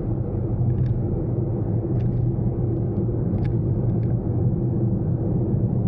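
Daihatsu Mira Cocoa kei car driving: a steady low hum of engine and road noise, with a few faint short clicks about one, two, three and a half and four seconds in.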